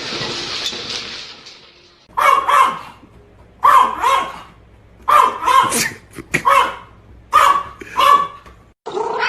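A dog barking repeatedly in short sharp barks, often in quick pairs, starting about two seconds in after a fading hiss.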